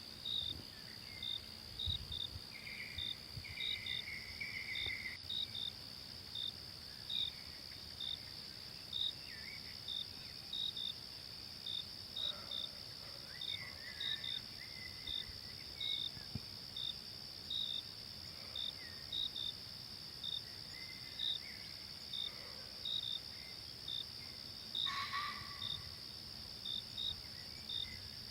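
Insect chorus: a steady high-pitched drone with crickets chirping about once or twice a second. Scattered short bird calls come through, with a louder one near the end.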